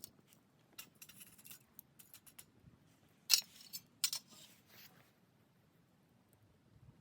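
Small objects being handled: a scatter of light clicks and knocks, with two sharper, louder clicks about three and four seconds in.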